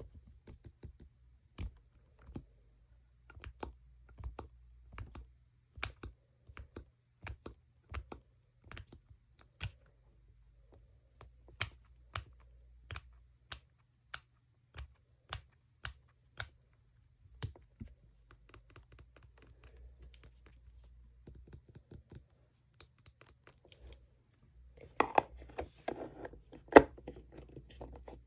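Tapping on makeup packaging: sharp, separate taps at an uneven pace of about one or two a second. Near the end comes a louder, denser run of scratching.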